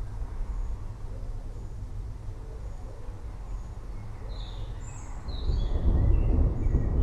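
Forest ambience: distant thunder rumbling low, swelling louder about five and a half seconds in. Birds chirp briefly in the second half, over a faint high peep repeating about once a second.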